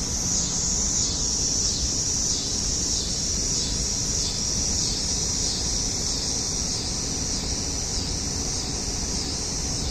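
Chorus of cicadas buzzing in a high, steady drone that pulses about twice a second, over the low steady hum of an air conditioner.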